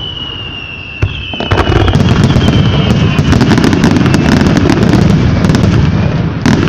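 Fireworks: a whistle falling slightly in pitch over the first few seconds, a sharp burst about a second in, then continuous booming and crackling from overlapping shells, with another loud burst near the end.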